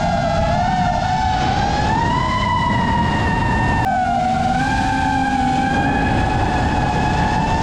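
Brushless motors of an iFlight Nazgul Evoque F5 five-inch FPV quadcopter whining, the pitch drifting up and down with the throttle, over heavy wind rush. The pitch jumps abruptly about four seconds in.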